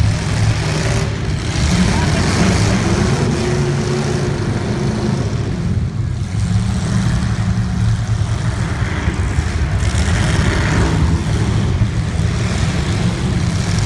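Racing engines running steadily, a continuous low drone whose pitch shifts a little as the cars go around.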